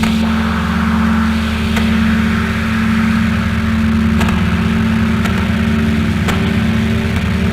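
Drone and harsh-noise music: a dense, steady low drone of stacked tones under a layer of hiss, with a few faint clicks. Some higher tones shift near the end.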